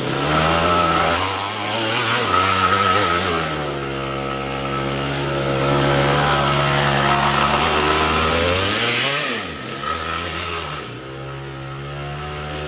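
Yamaha KT100S 100cc single-cylinder two-stroke kart engine running hard, its pitch dropping and climbing back a few times as the throttle is eased and reopened. It is somewhat quieter over the last few seconds.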